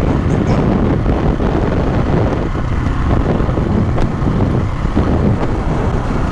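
Wind buffeting a helmet-mounted microphone over the rumble of a dirt bike's engine while riding, loud and steady.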